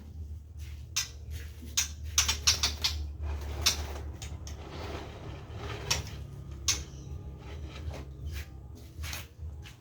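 A run of irregular clicks and knocks with short scraping rustles, thickest in the first few seconds and again midway, over a steady low hum: items being handled during bird-cage cleaning.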